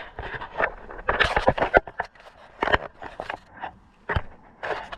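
Hand tools and metal parts clinking and scraping in a run of irregular knocks and short scrapes: wrench work on the bolts of a tractor's gas tank as it is being unbolted.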